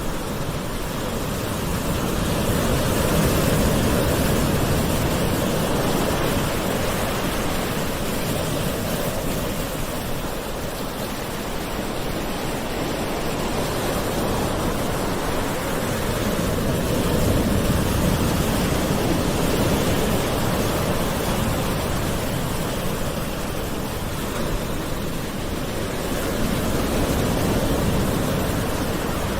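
Ocean waves washing in continuously, a steady surf hiss that swells and eases slowly every several seconds.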